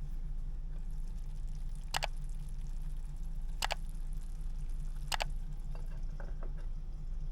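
A steady low hum, with three short sharp clicks about a second and a half apart.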